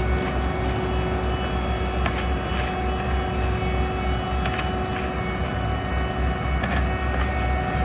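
Heavy diesel road-paving machinery running steadily: a deep, even engine rumble with a steady hum over it and a few faint clicks.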